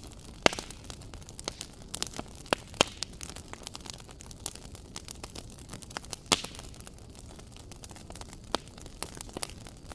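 Wood fire crackling in a fireplace. Irregular sharp pops come over a steady soft hiss, with the loudest pops about half a second in, near three seconds, and just past six seconds.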